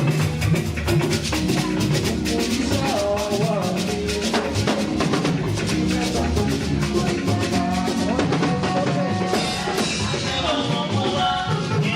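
Praise music led by a drum kit playing a fast, steady beat, with bass and other pitched instruments over it.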